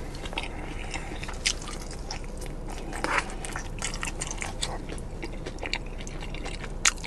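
A person chewing and biting into sauced fried chicken wings, close to the microphone, with wet mouth sounds and scattered short clicks; the sharpest click comes near the end.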